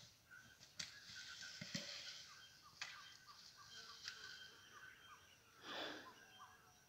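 Faint outdoor ambience: birds calling, including a quick run of short repeated chirps, over a thin steady high hum. A few light clicks and a brief rustling noise about six seconds in.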